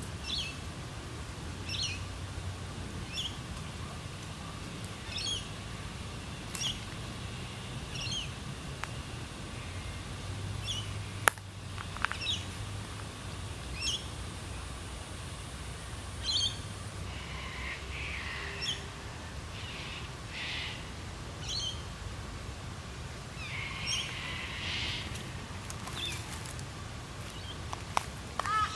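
Birds calling in the bush: one bird repeats a short, high call about every one and a half seconds. Other birds add bursts of chatter in the middle. There is a single sharp click a little before halfway.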